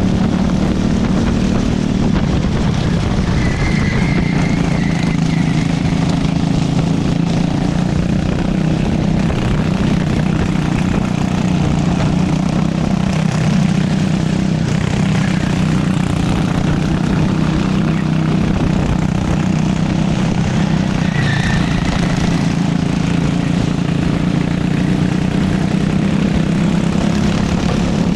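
Go-kart engine running hard at racing revs, heard from on board, its pitch dipping and climbing slightly through the corners, with wind and rushing noise.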